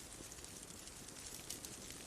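Wood bonfire crackling softly: a few faint pops, the clearest about one and a half seconds in, over a steady low hiss.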